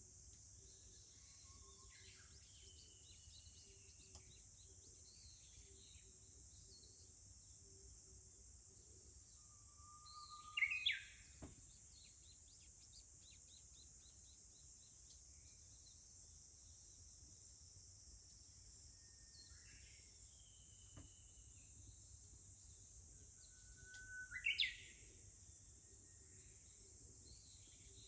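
Japanese bush warbler (uguisu) singing its "hoo-hokekyo" song twice, about fourteen seconds apart: a held low whistle that breaks into a quick rising flourish. Fainter calls of other birds come in between, over a steady high drone of insects, cicadas.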